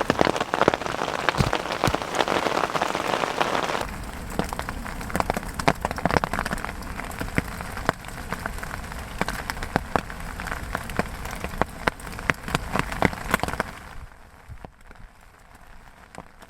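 Heavy rain falling, a dense hiss with many distinct drop hits. The sound changes character about four seconds in and drops in level near the end.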